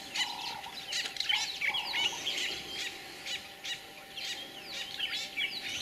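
Several wild birds chirping and calling, a busy run of short, quick high notes and little downward sweeps. A few short, lower held notes come in the first two seconds.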